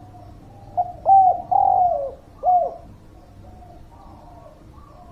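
Spotted dove (derkuku) cooing: one phrase of four notes about a second in, the third the longest and falling in pitch, with fainter coos from other doves in the background.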